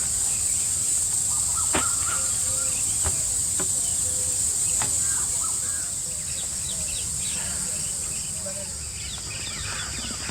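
Forest ambience: a steady high insect drone with short bird chirps scattered through, and four sharp clicks in the first half.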